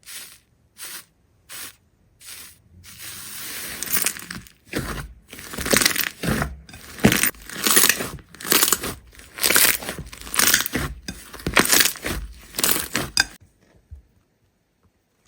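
A series of crisp crunches: a few single ones a second or so apart, then a quicker, denser run of crunching that stops about 13 seconds in.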